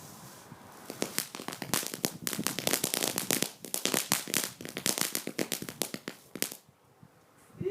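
Small garden firework crackling: a rapid string of sharp cracks that starts about a second in, runs for about five seconds and stops near the end.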